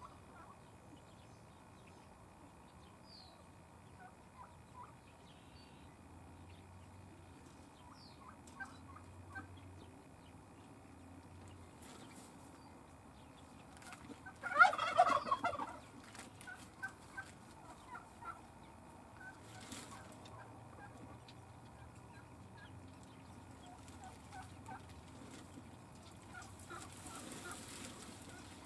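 A loud burst of rapid bird calls lasting about a second and a half, about halfway through, with fainter short calls scattered around it. Near the end, plastic sheeting rustles as it is handled.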